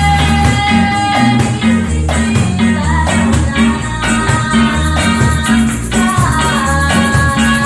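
A live band plays a reggae song: a repeating bass line and a steady shaker rhythm under a held melody line.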